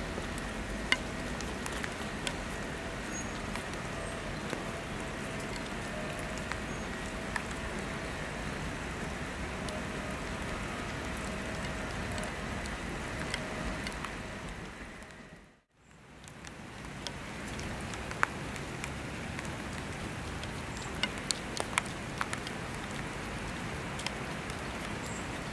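Steady rain falling on wet tarmac, an even hiss with scattered sharp drip-like taps. It fades out and back in about two thirds of the way through, and a few more taps come close together near the end.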